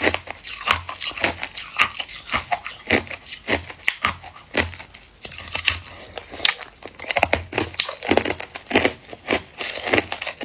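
Hard clear ice being bitten and chewed, crunching and cracking between the teeth in quick, irregular crunches with dull thuds beneath.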